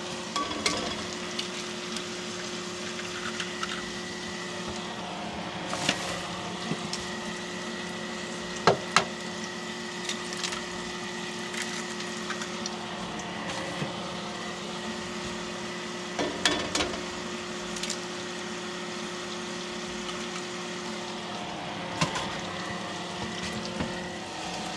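Food frying in a pan over a steady low hum, with a few sharp clicks and knocks of utensils or cookware scattered through.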